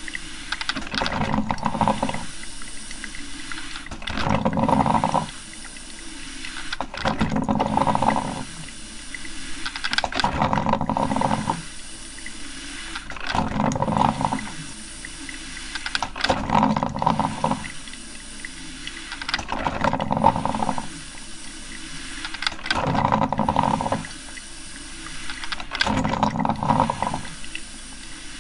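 Coffee maker brewing: water gurgling and hissing in surges that come back about every three seconds, over a steady hiss.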